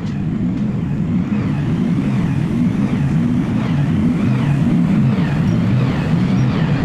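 A car's steady low rumble as it drives along, growing a little louder over the first couple of seconds.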